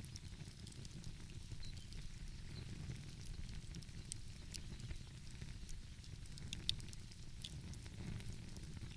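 Wood fire crackling, with scattered small pops and one louder pop about two-thirds of the way through, over a low steady rumble.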